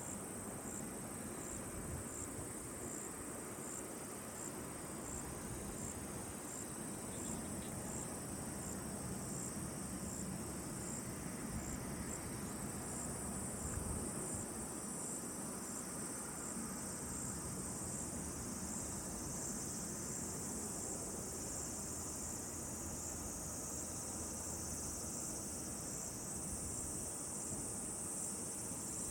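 Crickets singing steadily in a high, continuous chorus, with one insect giving short chirps at a regular pace over a soft outdoor hiss.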